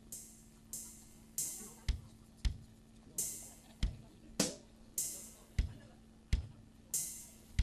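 Drum kit beat played over a sound system: cymbal strokes with short decays and deep kick-drum hits in a slow, loose pattern, with a steady low hum underneath.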